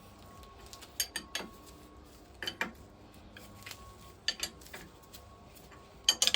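Hand spanner clinking against nuts and metal as the nuts are tightened, in scattered sharp clinks that come in small clusters, with a quick double clink near the end.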